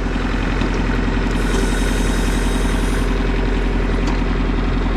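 Kubota LX4020 compact tractor's diesel engine idling steadily.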